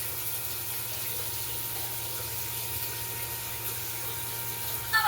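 Shower running: a steady rush of water spray with a low, even hum underneath.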